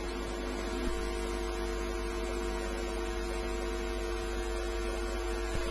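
Steady electrical mains hum: a low buzz with several steady tones above it, unchanging throughout.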